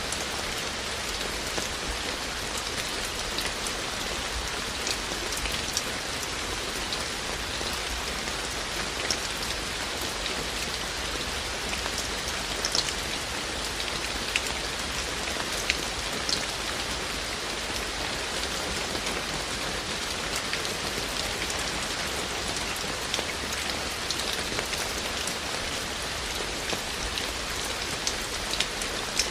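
Steady rain falling, with a constant hiss and many individual drops ticking sharply against a surface.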